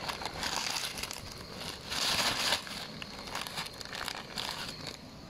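Packaged dinner meal pouches crinkling as they are handled and rummaged through. The loudest rustle comes about two seconds in.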